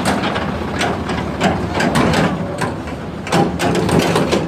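Tractor diesel engine running, with irregular metallic clattering and knocking over the steady hum.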